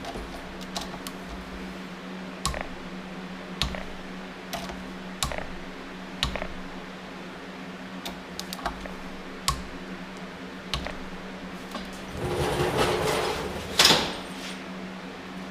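Scattered light clicks and taps of hand tools and engine parts being handled at a workbench, over a steady hum. About twelve seconds in there is a short burst of rustling noise that ends in a sharp clack.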